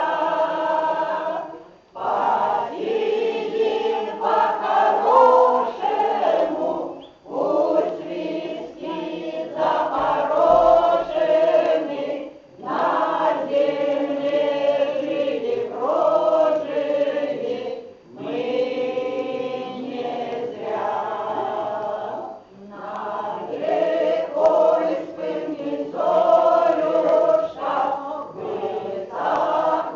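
A mixed choir singing a song without accompaniment, in phrases a few seconds long with short breaths between them.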